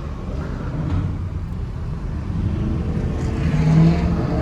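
Car engines running amid traffic as cars leave a crowded lot, a low steady rumble with one engine note growing louder about three and a half seconds in.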